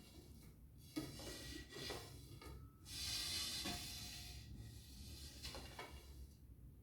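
Bathroom door being opened and closed, making a strange noise: a sharp click about a second in and several rubbing, swishing sounds as the door moves.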